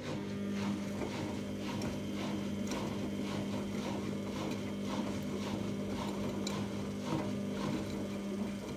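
14-year-old Samsung washing machine spinning at about a thousand RPM with a badly unbalanced load: a steady tone with a faint rhythmic ticking a few times a second, the weird squeaking noise that the owner takes for worn drum bearings.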